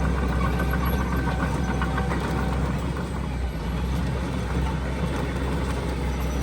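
Heavy diesel engine of earthmoving machinery running steadily at a low pitch, with a faint whine that fades out about a second in.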